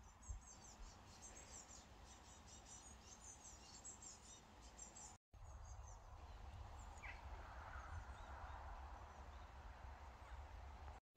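Faint birdsong of quick, high chirps over a low, steady outdoor rumble. About five seconds in, the sound breaks off briefly and comes back as a hazier background with only a few chirps.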